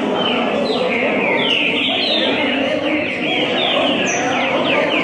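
Several caged trinca-ferros (green-winged saltators) singing against each other, a dense run of overlapping short falling whistled notes, over a low murmur of voices.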